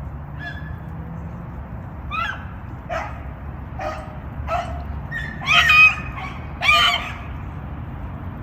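Hunting beagles baying on a rabbit's scent trail: about six calls, the last two louder and drawn out.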